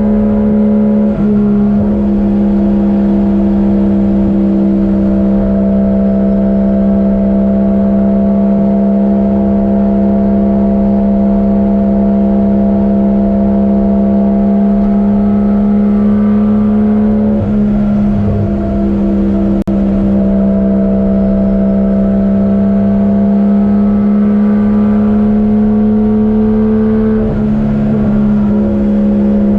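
Turbocharged 1JZ-GTE VVTi straight-six in a Nissan 240SX running at a steady, even drone while the car is driven, its tone shifting briefly three times.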